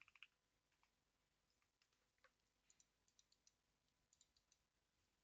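Faint, scattered clicking of a computer keyboard, in small clusters about three and four seconds in.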